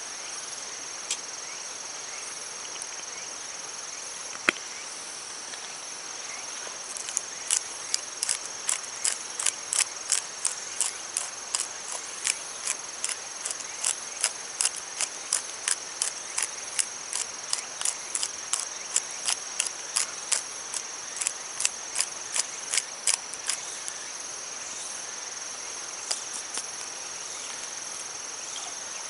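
Insects calling: a steady high-pitched trill, joined a few seconds in by a run of sharp, evenly spaced ticks, two to three a second, that stops a few seconds before the end.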